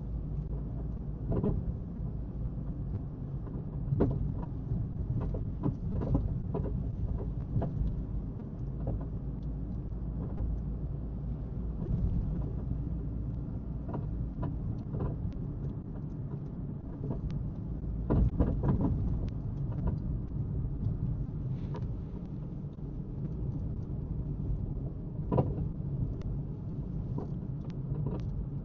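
Road noise of a car being driven, heard from inside the cabin: a steady low rumble of engine and tyres, with scattered light knocks and rattles.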